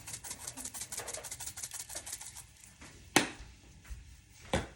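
Spice shaker of crushed red pepper being shaken over chicken, a fast even rattle that dies away about halfway through, then two sharp knocks of a container being handled or set down.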